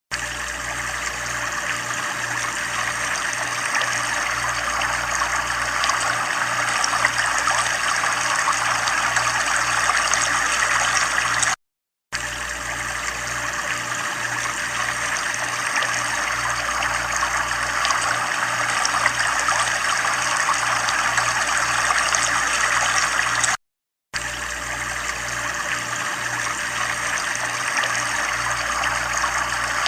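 Continuous running water, a steady trickling flow like a small stream, with a faint low pulsing hum underneath. It cuts out for a split second twice, about 12 seconds apart, where the recording loops.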